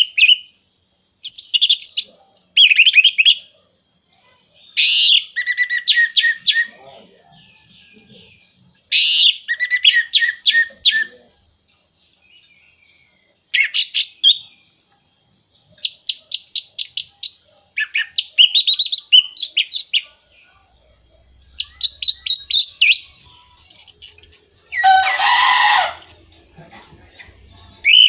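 Orange-headed thrush singing: short phrases of quick, varied whistled notes with pauses between them, and a harsher burst near the end. This is lure song played to stir other orange-headed thrushes into singing.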